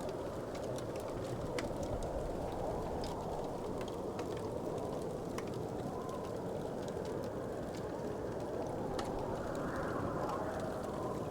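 Wood fire crackling: scattered sharp pops and snaps over a steady low rushing background.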